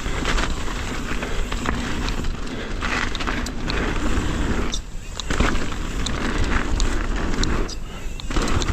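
Mountain bike riding fast down a dirt jump trail: tyre noise on the frozen dirt and wind rumble on the microphone, with scattered sharp clicks and rattles from the bike. It briefly goes quieter twice, about five and eight seconds in.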